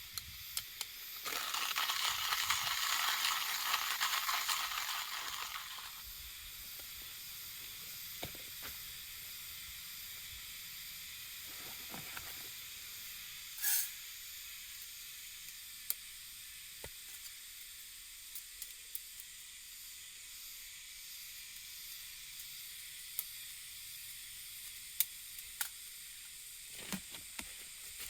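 Food sizzling in a hot pan. About a second in, the sizzle surges loudly for some five seconds, then settles to a steadier, quieter sizzle with scattered small pops.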